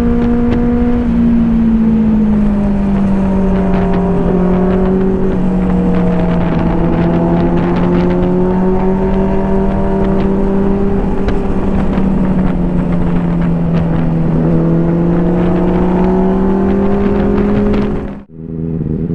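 Superbike inline-four engines running at high, steady revs, their pitch drifting slowly up and down, with more than one engine note heard at once. The sound cuts off suddenly near the end.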